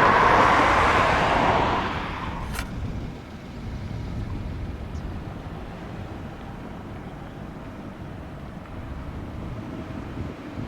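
A road vehicle going by: a loud rushing noise that fades away over the first two seconds. After that comes a low steady outdoor rumble, with a single sharp click shortly after the vehicle fades.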